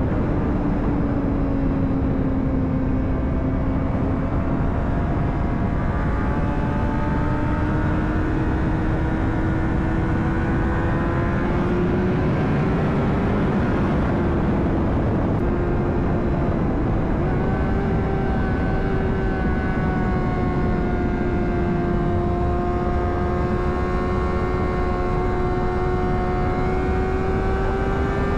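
2009 Honda CBR600RR's inline-four engine running at a steady road speed, its pitch drifting slowly up and down with small throttle changes, over heavy wind noise.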